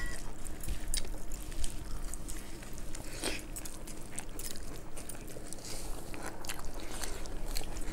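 Several people chewing and smacking their lips while eating by hand, with many short wet clicks and an occasional crunch.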